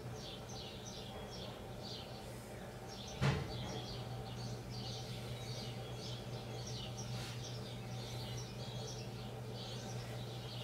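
Small birds chirping over and over in short quick calls, over a steady low hum. A single sharp knock, like a bar striking wood, about three seconds in.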